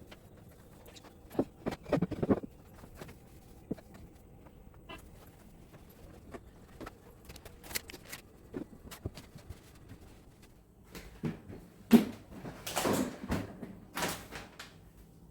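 Scattered knocks and clatter of kitchen cleaning, with a sharp knock about twelve seconds in followed by a couple of seconds of rubbing and scraping.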